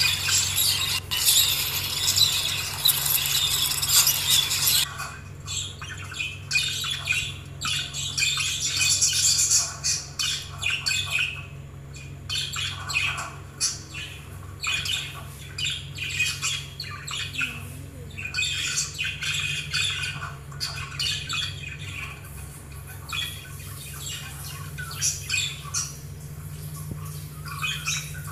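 A flock of budgerigars chattering and squawking, with dense calling for the first five seconds or so and then sparser calls, over a steady low hum.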